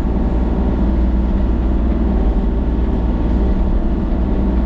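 An engine running steadily at a constant speed, a loud low hum that does not change.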